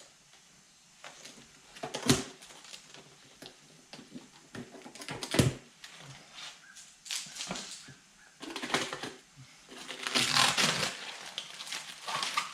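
Plastic wrapping being slit with a knife and pulled off a new tire, crinkling and tearing in irregular bursts, the loudest about two, five and ten seconds in.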